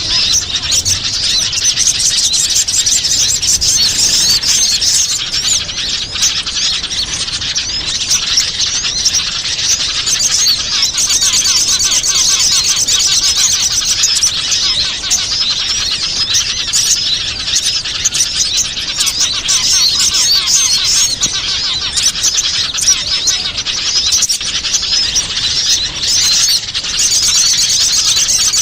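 Many small songbirds chirping and twittering at once in a dense, unbroken chorus of high calls: a bird-lure (pikat) recording made to draw in wild small birds.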